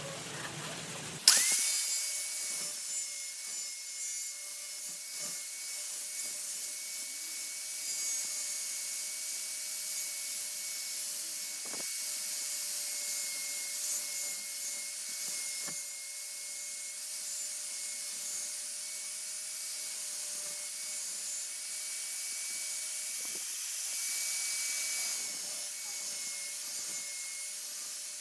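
A small electric power tool switches on just over a second in, spins up and runs at a steady pitch while it sands or abrades wood, with a rough rubbing hiss over the motor's whine.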